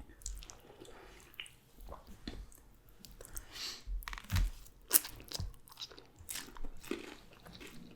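Close-up chewing and biting of crispy fried food, with irregular crunches, the loudest about five seconds in.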